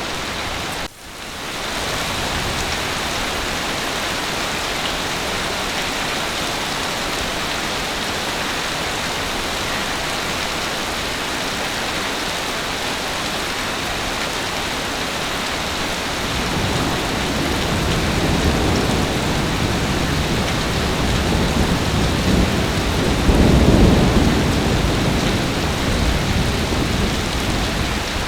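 Heavy rain pouring steadily. A low rumble of thunder builds from about halfway through and is loudest near the end. The sound drops out for a moment about a second in.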